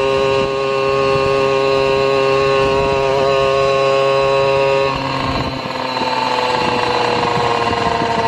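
Vehicle engine running at a steady pitch; about five seconds in the sound changes suddenly and the pitch then slowly falls, as when the engine comes off the throttle.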